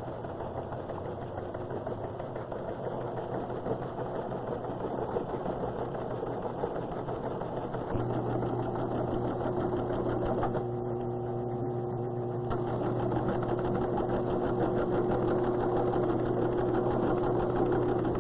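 Teletype machines clattering in a fast, even chatter over a steady motor hum. The hum grows louder about eight seconds in, and the clatter briefly drops away a couple of seconds later, leaving the hum alone before it resumes.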